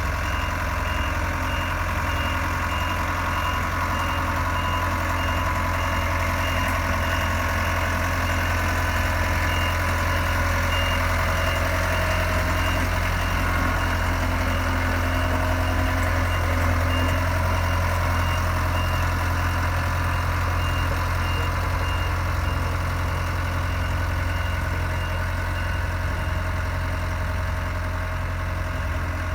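Sakai SV200T vibratory soil roller's diesel engine running steadily with a deep low hum, while a back-up alarm beeps regularly and then stops about three-quarters of the way through.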